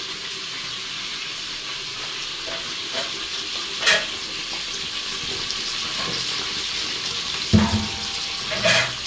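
Pieces of field rat sizzling steadily as they fry in oil in a frying pan on a gas burner. A sharp click comes about 4 s in and another near the end, and a loud thump about three quarters of the way through.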